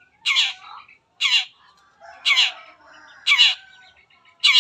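Long-tailed shrike (cendet) giving short, scratchy calls that sweep downward, repeated about once a second, five times.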